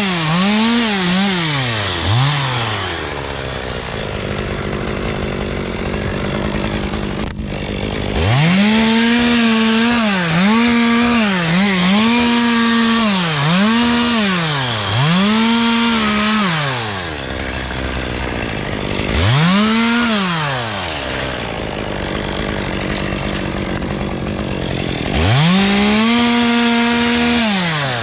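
Two-stroke chainsaw throttled up in repeated short runs of a second or two, each rising to a held high pitch and dropping back to idle between them; a sharp click about seven seconds in.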